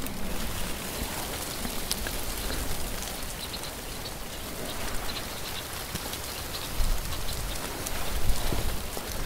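Light rain pattering steadily, with scattered sharper drop ticks and a couple of low rumbles near the end.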